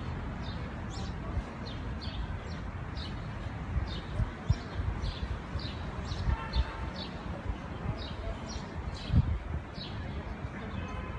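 A small bird chirping repeatedly: short, high, falling chirps about twice a second, over a steady low rumble with a few thumps.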